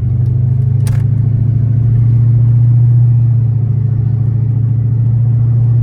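Chrysler 300's Hemi V8 pulling hard, its exhaust a loud, steady low drone from inside the cabin that swells a little two to three seconds in. A brief click about a second in.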